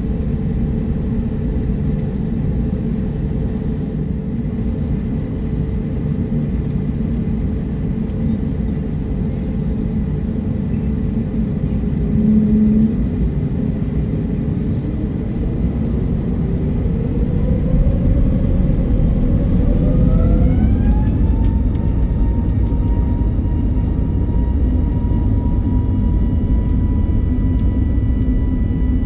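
Airbus A321neo turbofan engines heard from inside the cabin: a steady low rumble, then past the middle the engines spool up to takeoff power, their whine rising in pitch and settling into a steady high tone. A short louder hum comes a little before the spool-up.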